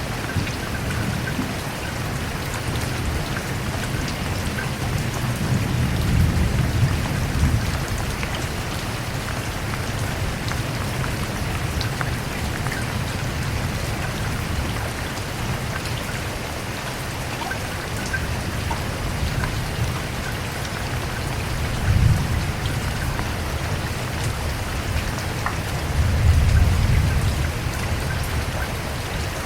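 Steady rain, a dense even patter of drops, with low rumbles of thunder swelling up three times: a longer roll, a short one, then another roll.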